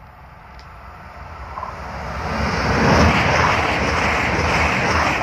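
A CrossCountry diesel passenger train passing over the level crossing at speed. Its rumble builds over the first two or three seconds and stays loud as the coaches go by.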